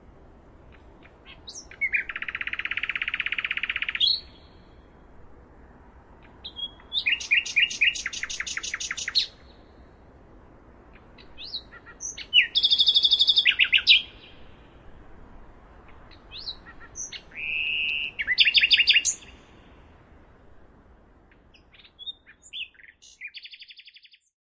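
Birds singing: five phrases of rapid, high chirps and trills, each about two seconds long, a few seconds apart, over a faint steady hiss.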